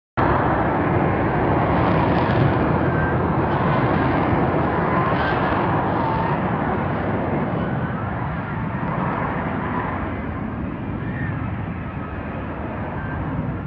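Jet aircraft engine noise: a loud, steady rushing that starts suddenly and slowly fades over the last several seconds.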